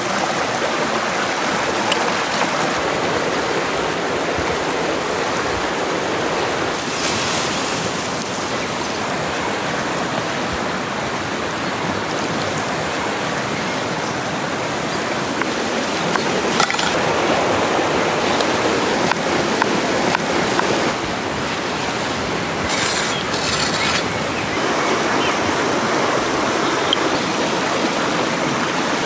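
Steady rushing water of a stream. A few light clicks and two brief high hisses sound over it.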